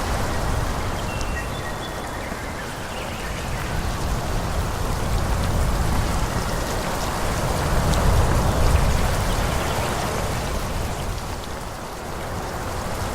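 Wind blowing through forest trees: a steady rushing of leaves with a low rumble that swells in gusts, strongest about two-thirds of the way through and easing near the end.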